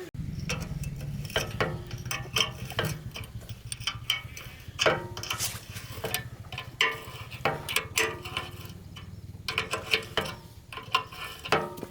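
Irregular metallic clicks and knocks of hand tools working on diesel engine parts, a few strikes a second and unevenly spaced, over a steady low hum.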